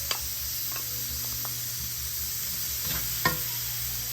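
Potatoes and capsicum frying on high heat with freshly added ground spices, a steady sizzle, with a few sharp clicks of a utensil against the pan near the start and about three seconds in.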